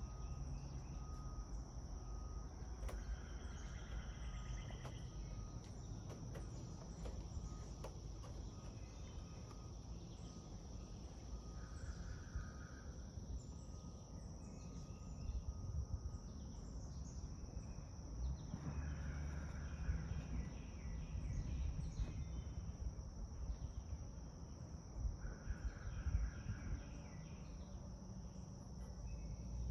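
Steady high-pitched insect trill, cricket-like, over a low rumble. Short bursts of chirping come about a third of the way in, again past the middle, and near the end.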